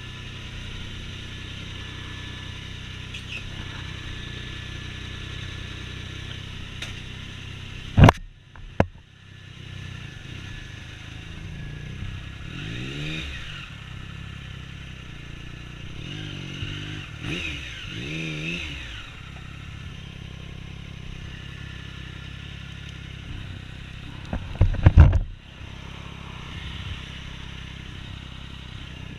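Triumph Speed Triple R's three-cylinder engine running as the motorcycle is ridden, the revs rising and falling a few times in the middle. Two loud thumps stand out, one about a third of the way in and one near the end.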